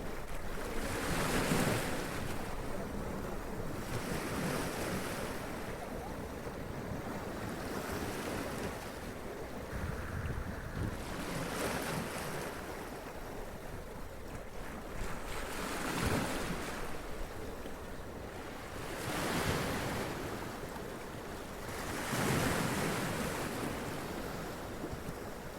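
Sea waves breaking and splashing against rocks, a surge of spray every few seconds over a steady wash of surf, with some wind noise on the microphone.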